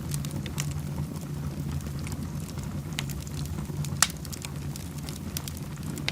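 Wood fire burning in a fireplace, crackling with scattered sharp pops, the loudest about four seconds in, over a steady low rumble.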